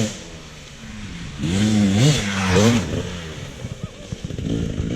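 Dirt bike engine revving up and down in a few quick throttle blips about a second and a half in, then dropping back to a lower, steady run, with scattered knocks and clatter near the end.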